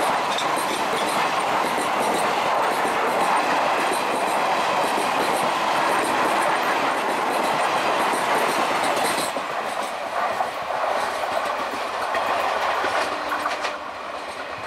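Passenger coaches of an express train rolling past close by, a steady rumble of wheels on rail with the clickety-clack of wheels crossing rail joints. It gets somewhat quieter in the last few seconds.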